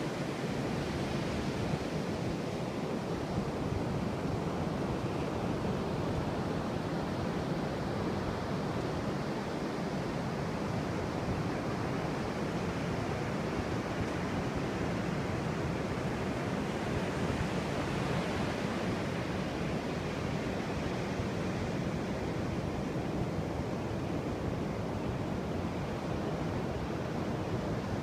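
Steady rush of ocean surf, an even wash of noise without distinct breaking waves, briefly a little brighter and hissier a bit past the middle.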